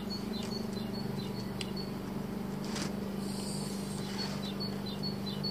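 A steady low hum under a small bird's short, high chirp, repeated about four times a second. About three seconds in, a brief rustle and scrape as twine is drawn through the pot's netting.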